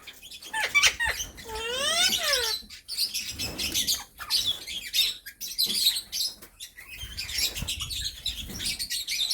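Pet parrots chirping and chattering in short, high calls, with one longer call that rises and then falls in pitch about two seconds in.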